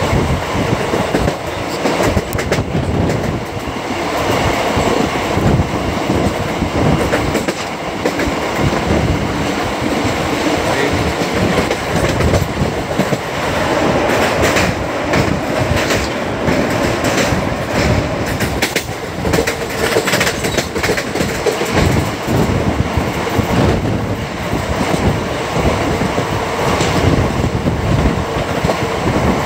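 A moving passenger express train running steadily: continuous wheel-on-rail rumble with repeated clacks as the coach wheels cross rail joints.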